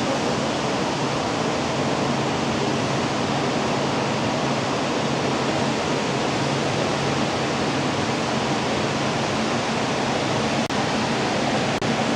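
Steady road and engine noise inside a moving tour bus: an even rushing with a faint low hum underneath, broken by two very brief dropouts near the end.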